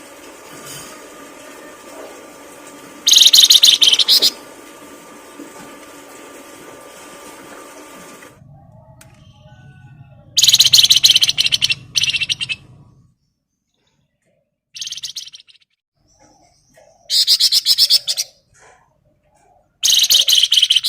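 A songbird singing in about five loud bursts of fast, high chirping, each lasting one to two seconds with short pauses between.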